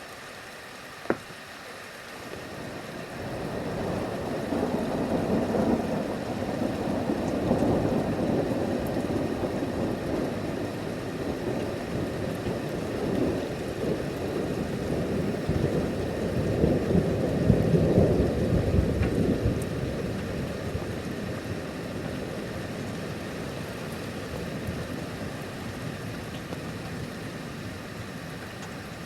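A long roll of thunder that builds about three seconds in, rumbles on for over twenty seconds with two swells, and slowly dies away.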